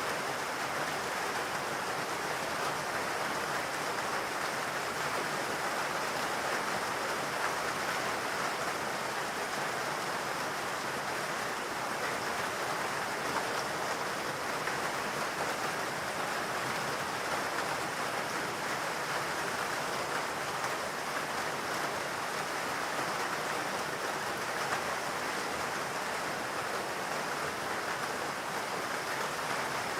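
Steady rain falling in a forest, an even hiss of drops.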